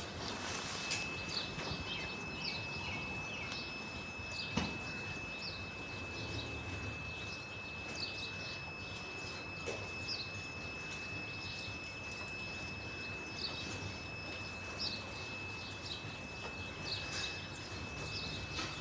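Barn ambience with small birds chirping in short, scattered calls, over a thin, steady high-pitched whine. A single knock comes about four and a half seconds in.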